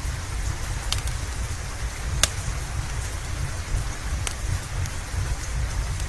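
Steady rain with a low rumble underneath, broken by sharp pops of a crackling wood fire: a few distinct pops, the loudest a little over two seconds in.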